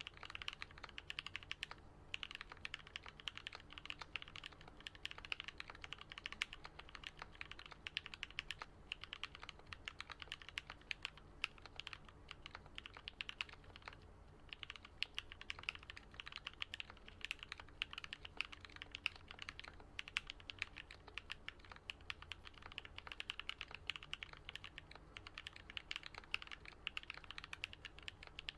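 Steady fast typing on a Switch Couture Alice-layout custom mechanical keyboard with lubed and filmed Gateron Yellow linear switches and lubed Durock stabilisers: a dense run of deep 'thock' keystrokes, with short pauses about 2 and 14 seconds in.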